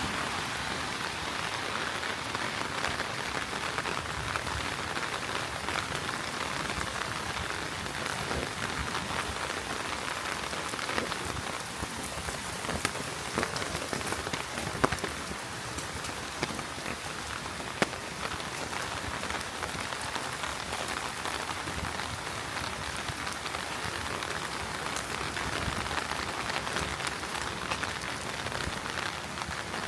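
Heavy rain falling steadily, an even hiss with scattered sharp ticks of single drops, a few of them louder about halfway through.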